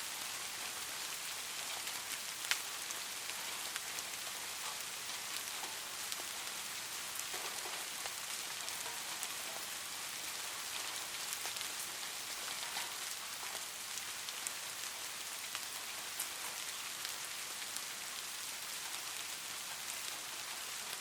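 Light rain falling steadily: an even hiss with many scattered individual drop taps, one sharper tap about two and a half seconds in.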